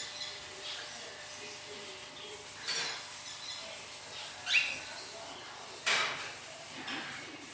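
Pet parrot giving three short, sharp calls, the middle one rising in pitch.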